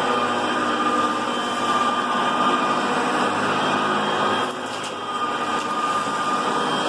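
Hoover Concept One upright vacuum running steadily as it makes a cleaning pass, a motor hum with a thin whine over it, dipping slightly in level about four and a half seconds in.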